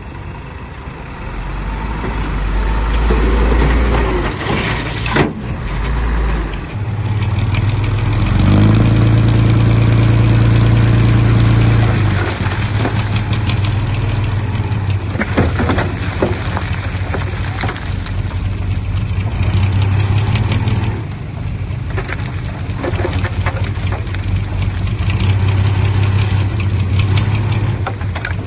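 Heavy earthmoving machinery's diesel engine running under load. It gets louder about a quarter of the way in, with a sharp knock about five seconds in and several clanks around the middle.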